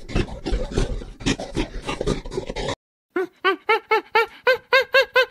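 A dense run of irregular crackling, crunching noises, then after a brief cut to silence a quick series of squeaky animal calls, each rising and falling in pitch, about three a second.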